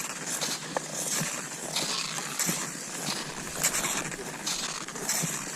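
Cross-country skis sliding and ski poles planting in snow, with a steady rhythm of gritty strokes about three every two seconds.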